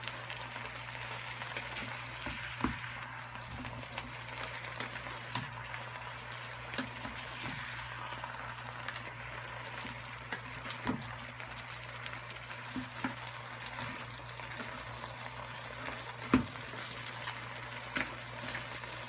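Vegetables and crabs sizzling in a nonstick frying pan as a wooden spatula stirs them, with scattered knocks of the spatula against the pan, the loudest about sixteen seconds in. A steady low hum runs underneath.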